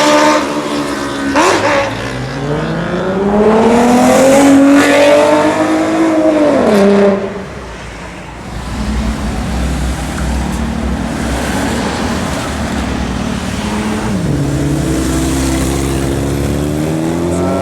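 Sport motorcycle engines revving: a quick blip about a second in, then a long climb in pitch that drops off sharply about seven seconds in. After that a lower, steadier engine sound, with another rev starting to rise near the end.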